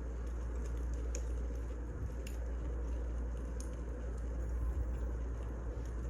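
Wood fire burning: a steady low rumble and hiss with a few sharp crackling pops scattered through it.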